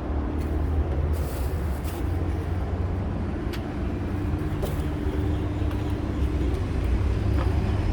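A vehicle engine idling: a steady low rumble with a faint hum, and a few light clicks over it.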